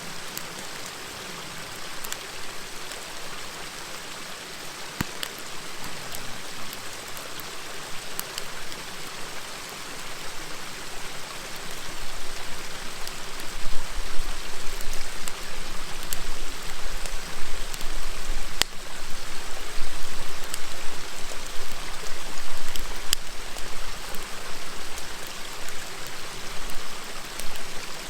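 River murmuring steadily, with scattered sharp crackles and pops from a wood campfire. A low rumble makes it louder through the middle part.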